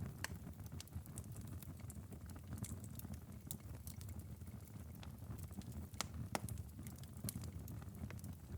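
Ember bed of a long-burning wood fire crackling in a fireplace: scattered sharp ticks and pops over a low steady rumble, with two louder pops about six seconds in.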